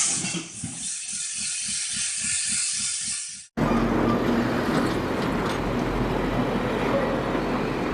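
Machinery with a regular low knocking rhythm of about four to five beats a second. It cuts off abruptly about three and a half seconds in, and a steady rushing noise with a low rumble replaces it.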